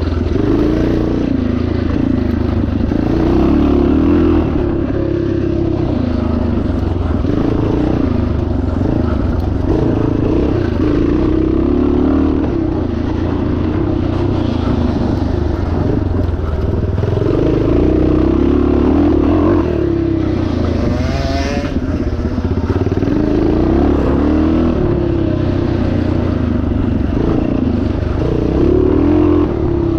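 1977 Yamaha TT500 four-stroke single-cylinder engine at race pace off-road, its revs rising and falling continually as the throttle is worked, with one sharper rev rise about two-thirds of the way through.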